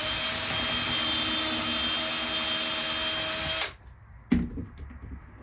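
Power drill running at a steady speed for about three and a half seconds, then stopping; a single knock follows about half a second later.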